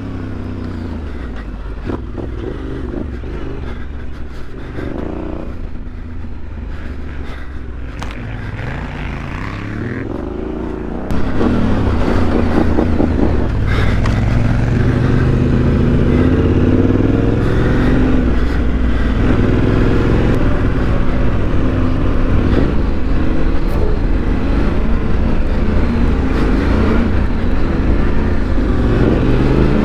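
Yamaha Ténéré 700's parallel-twin engine through a Mivv Dakar exhaust, ridden hard off-road, its revs rising and falling with throttle and gear changes. It gets noticeably louder about eleven seconds in.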